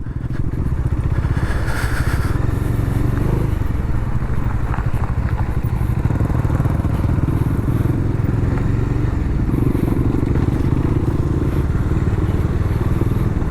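Bajaj Dominar motorcycle's single-cylinder engine running steadily while riding along.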